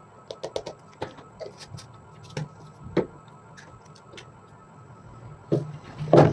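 Irregular light clicks and knocks of hand tools and parts being handled on a work surface, with one louder knock near the end.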